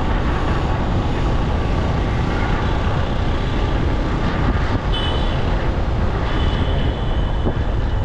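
Steady road noise from a motorcycle riding through city traffic, with wind rushing over the microphone.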